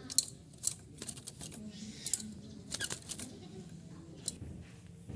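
Irregular sharp clicks and taps, with a few faint bird chirps in among them.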